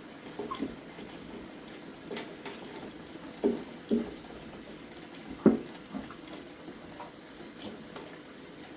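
Wiping inside a microwave with a wet soapy cloth, with several short dull knocks against the cavity, the loudest about five and a half seconds in.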